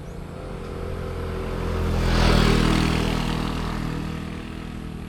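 A motor vehicle engine passing by, growing louder to a peak about two seconds in and then fading away.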